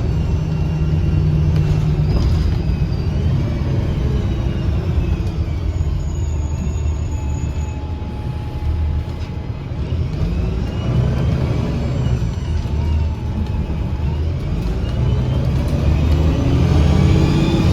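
2009 Gillig BRT 40-foot diesel transit bus running under way, a low engine rumble with the throaty whine of its Voith automatic transmission. Whining tones slide down early on, hold steady through the middle, and climb again over the last few seconds as the bus accelerates, with the sharp whistling sound that this bus makes under acceleration.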